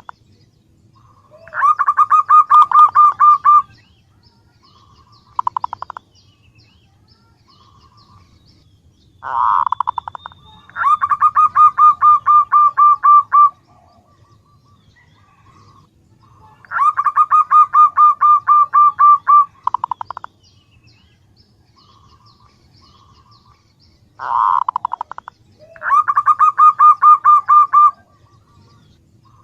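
Female zebra dove (perkutut) calling: repeated bursts of rapid staccato notes, each a quick run of pulses, the longer ones lasting two to three seconds and coming every six to eight seconds with shorter bursts between them. This is the female's call to males.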